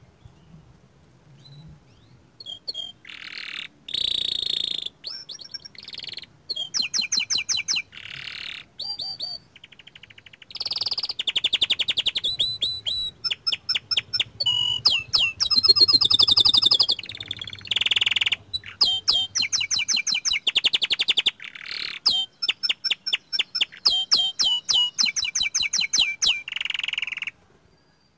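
Young domestic canary singing in long phrases of rapid trills and quick repeated high notes, separated by short pauses. It begins a couple of seconds in and stops shortly before the end.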